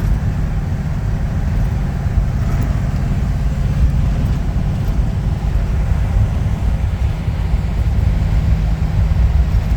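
1952 Ford F-2 pickup truck driving along, its original engine running steadily under a low rumble of road noise.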